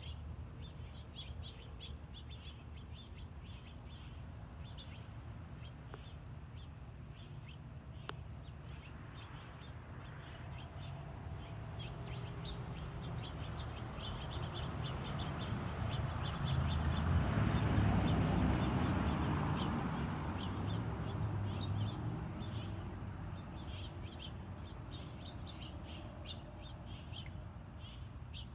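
Many small birds chirping, with short rapid high chirps throughout. A low rushing noise swells up and fades away around the middle, loudest there.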